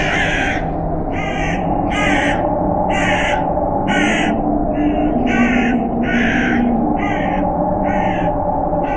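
A crow cawing over and over, about a dozen harsh caws a little under a second apart, over a steady low howl of wind.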